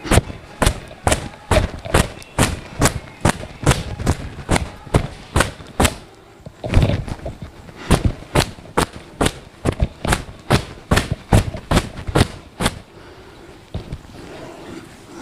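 Towel slapping against long wet hair to dry it: sharp slaps in a steady rhythm, about two to three a second, with a short break near the middle and stopping shortly before the end.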